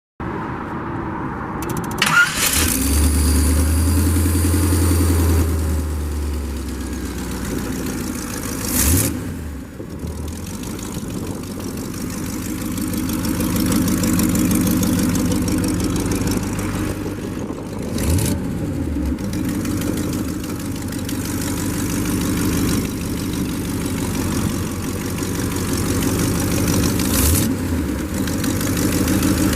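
Rebuilt 350 cubic-inch V8 in a custom 1931 Ford Model A pickup, started about two seconds in and then running at a steady idle. Brief revs come roughly every nine seconds.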